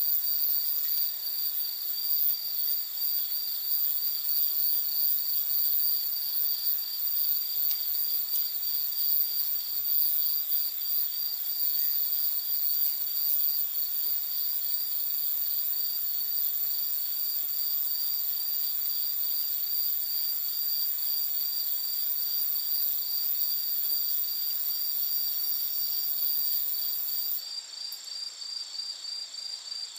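Night insects, crickets among them, calling together: a steady high trill layered with an evenly pulsing chirp. The highest-pitched part of the chorus stops near the end. A few faint pops from the campfire come through underneath.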